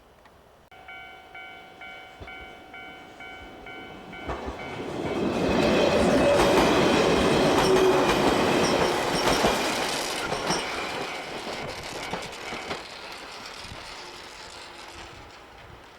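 A repeating ringing tone pulses about twice a second, then stops about four seconds in as a 115-series electric train comes through. The train's passing noise swells, is loudest for several seconds with sharp rail clatter, then fades away.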